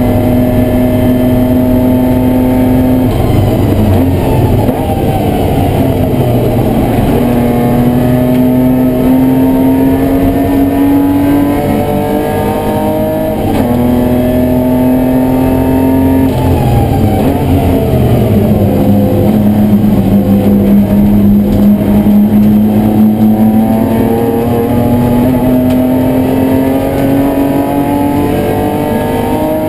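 BMW E30 race car engine at full racing load, heard from inside the cabin. Its pitch climbs steadily, drops sharply with each gear change (around 3, 13 and 16 seconds in) and then makes one long slow climb through the second half.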